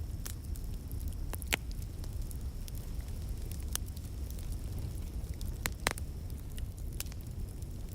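Wood fire crackling in a fireplace: irregular sharp pops and snaps, a handful spread across a few seconds, over a steady low rumble of the flames.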